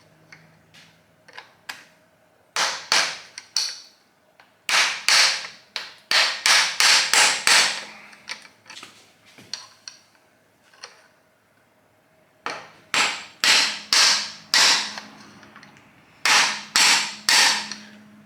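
Hammer blows on metal in bursts, sharp ringing strikes, a fast run of about eight near the middle, while knocking the pistons off an old air-cooled VW engine.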